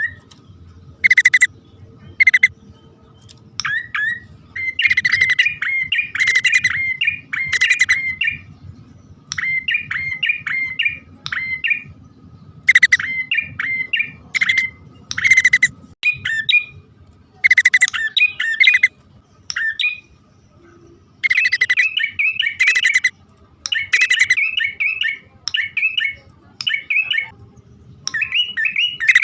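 Prenjak (prinia) calls, male and female: harsh, buzzy scolding notes alternating with rapid runs of chirps, in bursts of about a second with short pauses between, repeated over and over as a lure call.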